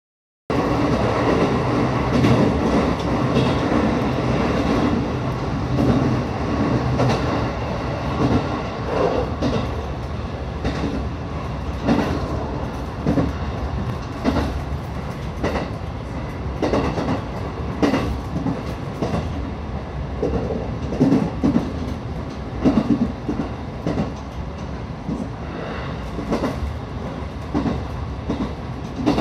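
Local electric train running at speed, heard from inside the passenger car: a steady rumble with irregular clacks as the wheels pass over rail joints.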